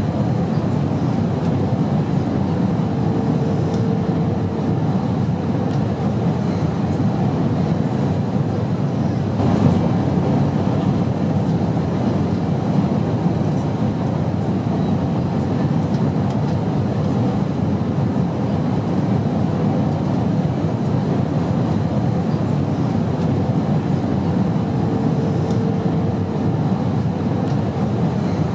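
Airliner cabin noise in flight: a steady, even low rumble and rush of engines and airflow. A faint hum rises out of it twice, and there is a slight bump about nine and a half seconds in.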